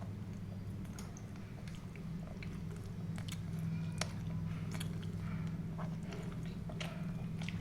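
Close-up eating sounds: chewing and biting food, with scattered mouth clicks and smacks, over a steady low hum.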